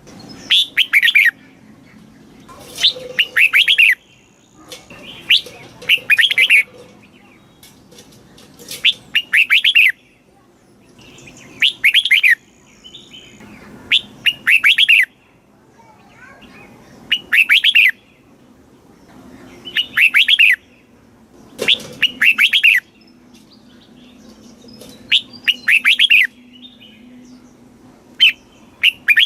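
Red-whiskered bulbul singing: short, bubbly phrases of quick whistled notes, repeated about every two to three seconds.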